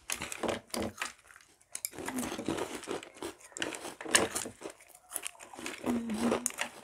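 Kurkure corn snacks being crunched and a snack packet crinkling: a run of short, irregular crackles and clicks.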